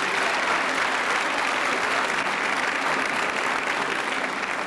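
Audience applauding steadily after a musical number, easing off near the end.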